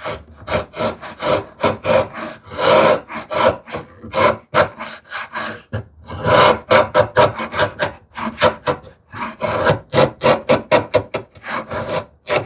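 A hand tool shaving thin layers off a wooden tenon in quick, short scraping strokes with brief pauses, taking the tenon down because it fits its mortise too tightly.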